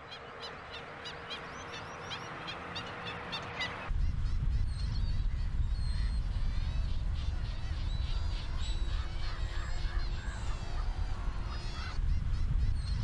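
Black-winged stilts calling: a rapid, evenly repeated series of sharp yapping notes. About four seconds in the sound cuts abruptly to a deep rumble like wind on the microphone, with scattered bird calls over it.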